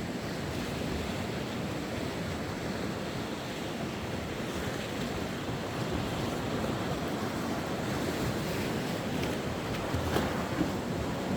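Sea waves washing onto the shore, a steady rush of surf, with some wind on the microphone.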